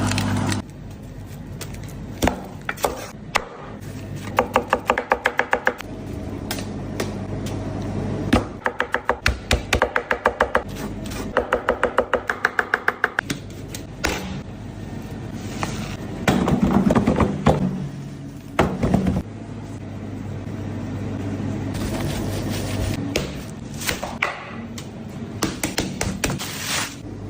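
Knife chopping quickly on a cutting board, about eight strokes a second, in several runs of a couple of seconds each.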